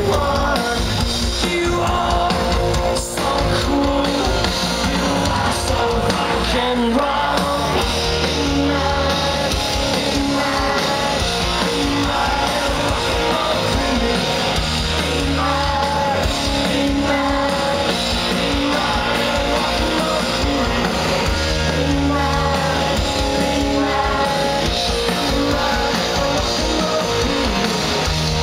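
A rock band playing live through a festival PA: distorted electric guitar, bass and drum kit with a singer, heard through an amateur recording.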